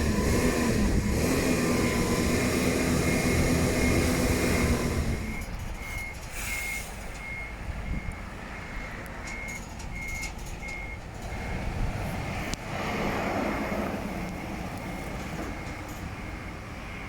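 A vehicle's reversing alarm beeping steadily on one high pitch, about one and a half beeps a second, over its running engine, which is loud for the first five seconds and then drops back.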